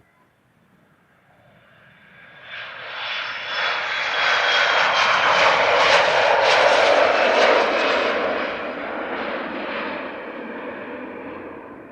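Jet aircraft passing close by: the engine noise swells from near silence, peaks about five to seven seconds in, then fades, with a faint whine that falls in pitch as it goes past.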